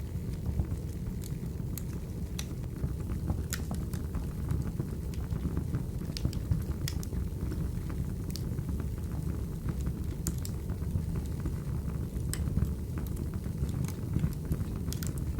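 Wood fire burning: a steady low roar with irregular sharp crackles and pops of the burning logs scattered throughout.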